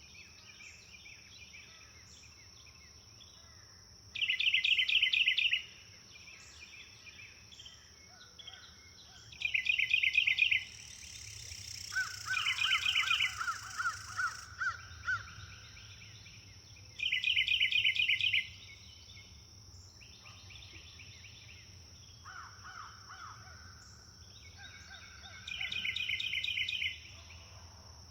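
Songbirds calling in loud bursts of rapid, chattering repeated notes, five times, each about a second and a half long. A run of quicker, lower notes comes between the second and third bursts and again near the end. A steady high insect drone runs underneath.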